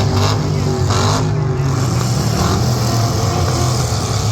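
Demolition derby trucks' engines running loudly together in the arena.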